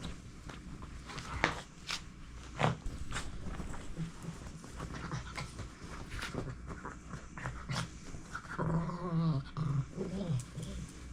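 A dog panting and moving about, with scattered clicks and knocks, then a short pitched vocal sound lasting about two seconds near the end.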